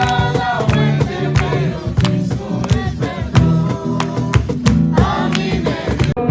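Acoustic guitar strummed in a steady rhythm, accompanying singing of a worship song. About six seconds in, the sound cuts abruptly to a duller, muffled version.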